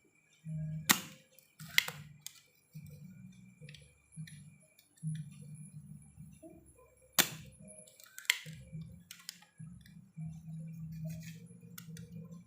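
Several sharp clicks and knocks against a low hum that keeps starting and stopping, with a faint steady high tone underneath, as a CRT television is handled and worked on during repair.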